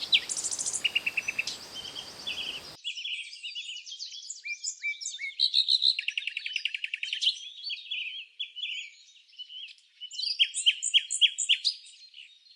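Songbirds singing: a busy run of chirps, fast trills and short downward-sweeping notes, with a burst of loud repeated sweeping notes near the end. A background hiss beneath the birds cuts off abruptly just under three seconds in.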